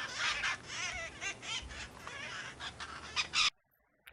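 A parrot calling in a rapid series of short, high calls that stops abruptly about three and a half seconds in.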